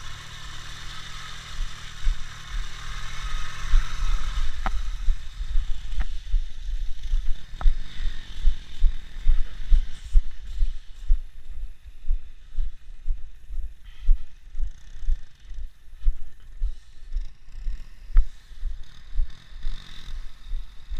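Motorcycle engine running for the first few seconds. Then a steady series of dull thumps, about one or two a second, which fits footsteps and camera handling while walking.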